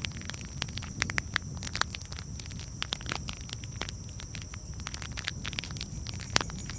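Campfire crackling: irregular sharp pops and snaps over a steady low rumble and hiss, with one louder pop near the end.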